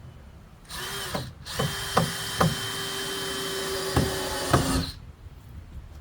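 Power drill running for about four seconds, pausing briefly about a second in, with several sharp clicks over the steady motor sound. It is driving screws into the wooden frame.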